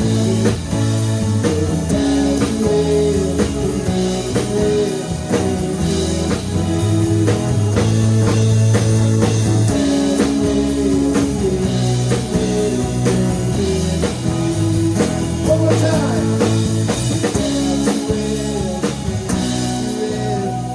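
Live band playing a blues-rock jam: electric guitar over held bass notes and a steady drum beat.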